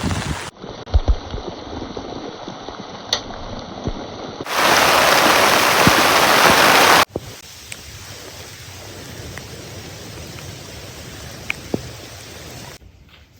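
Heavy rain falling, heard in several short takes that change abruptly. The loudest take, from about four and a half to seven seconds in, is a dense, steady hiss of downpour.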